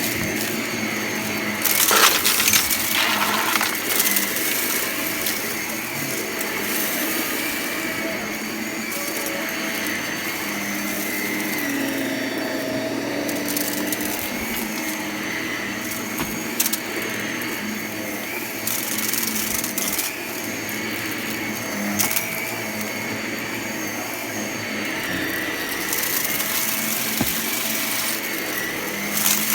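Vacuum cleaner running steadily with a constant whine, with repeated sharp clicks and crackles as crunchy debris is sucked up; a loud cluster of clicks comes about two seconds in.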